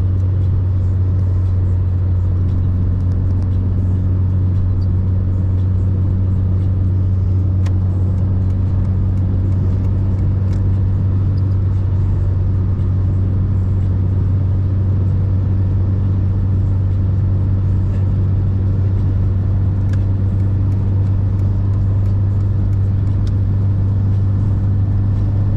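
Mercedes-Benz 190E running with a steady low drone, the pitch holding even with no revving, after a repair of its KE-Jetronic fuel injection.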